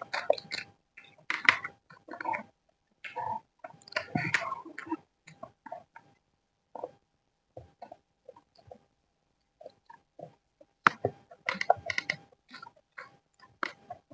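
Close-miked chewing and wet mouth sounds of a person eating fried rice, in irregular bursts with sharp clicks and short pauses between mouthfuls.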